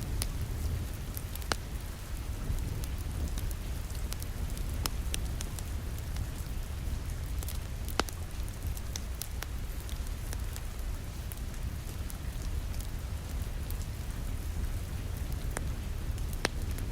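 Rain falling against a window over a crackling wood fire: a steady low rumble and hiss with scattered sharp crackles and pops. The two loudest pops come about a second and a half in and again near the middle.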